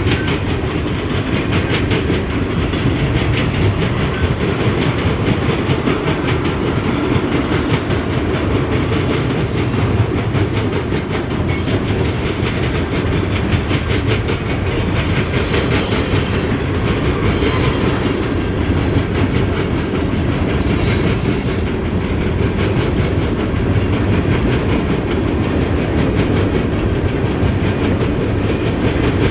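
Freight train cars rolling past at steady speed, wheels clacking over the rail, with some faint high wheel squeal in the middle.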